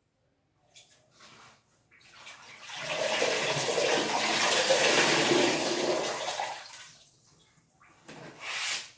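Water rushing, swelling about two seconds in and dying away some four seconds later, with a shorter rush near the end.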